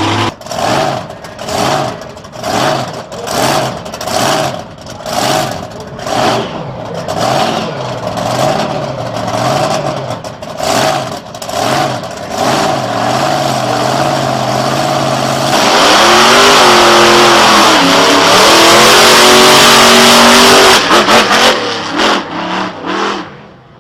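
Monster truck engine repeatedly blipping its throttle, about one and a half revs a second, then held at full throttle for about five seconds, its pitch rising and falling, before it stutters and drops off near the end.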